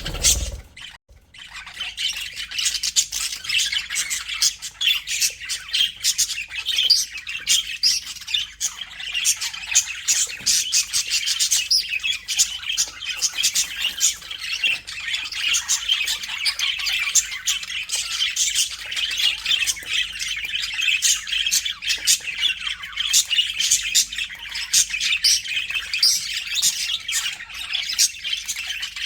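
A flock of budgerigars chattering, with many overlapping chirps, warbles and squawks. The chatter breaks off briefly with a low thump at the start, then runs on densely.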